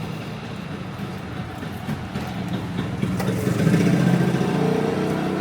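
A motorbike engine passing close in a busy street, growing louder to its peak about four seconds in and then easing off, over a steady hum of street noise.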